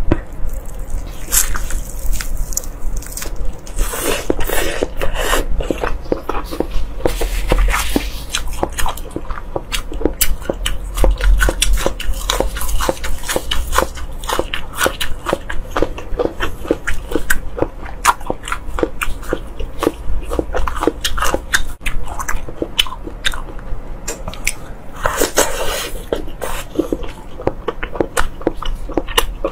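Close-miked eating: biting and chewing crisp food, with a rapid, irregular run of crunches.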